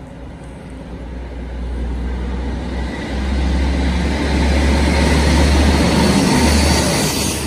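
Blue HST's Class 43 diesel power car approaching and passing at speed through the station, with engine drone and wheel-on-rail noise building over several seconds. The sound is loudest as the power car draws level, about five to seven seconds in.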